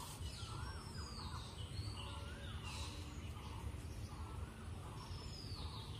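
Birds calling about once a second in short warbling notes that rise and fall, over a steady low background rumble.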